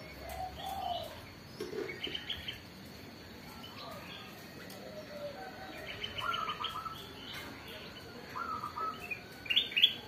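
Birds chirping in short, rapid trills of quickly repeated notes, several times over, the loudest near the end.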